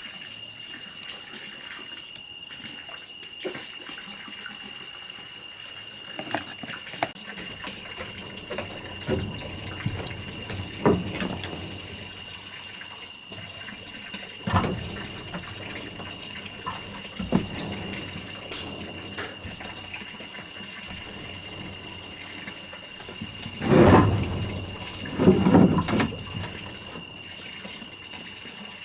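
Steady water-like noise with a constant high-pitched tone over it, broken by scattered knocks and two louder thumps near the end.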